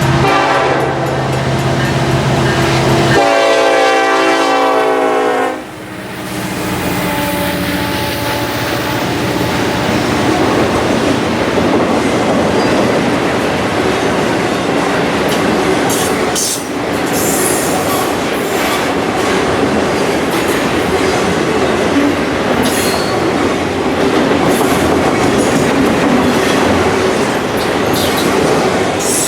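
A train's air horn sounding as the locomotive passes, the chord dropping in pitch about three seconds in and ending after about five and a half seconds. The train then rolls by with a steady rumble of wheels on rail and scattered clicks over the rail joints.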